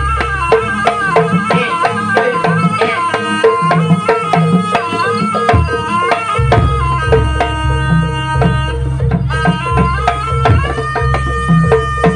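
Jaranan music played live: drums keep a fast, busy beat under a wavering, ornamented melody line. The deep bass drops out about a second in and comes back about six seconds in.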